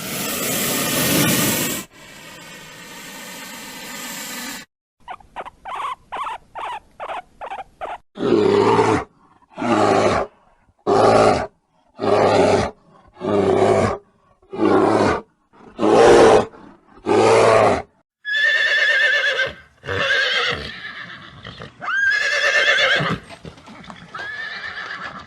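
A string of animal calls, one after another. It starts with a loud rough blast of about two seconds, then a quick run of short calls, then about nine loud calls under a second each in a row. Near the end come horse-like whinnies that rise in pitch.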